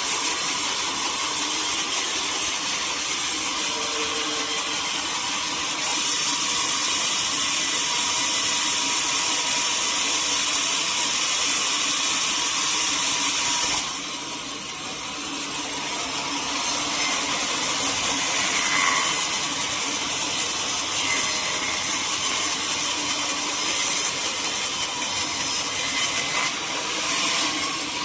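Sawmill band saw cutting teak wood: a continuous loud, hissing cutting noise that eases off briefly about halfway through and again near the end.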